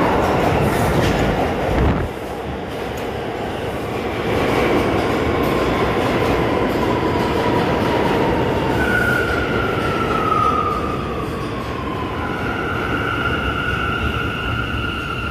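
New York City subway train running through a station, with steady rumble and rail clatter. Partway through a high-pitched whine slides down in pitch, and near the end steady high tones take over.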